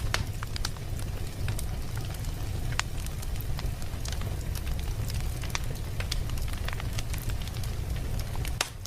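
Wood fire in a fireplace crackling, with irregular sharp pops over a steady low rumble of burning.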